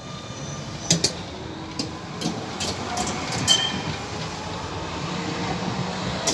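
A tram running on its rails: a steady running noise with a low hum, and a series of irregular sharp clicks and knocks from the wheels over the track.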